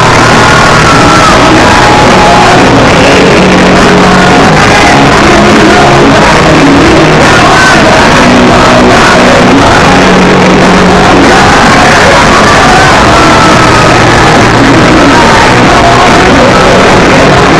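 Live band playing an acoustic rock song with a lead singer, recorded very loud throughout.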